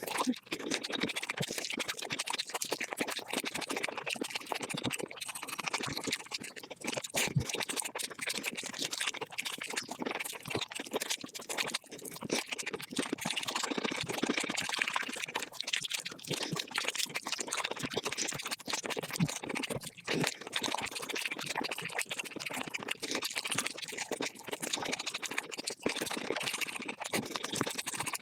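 Close-miked eating sounds of chicken played at five times speed: a rapid, unbroken stream of crunching, chewing and mouth clicks.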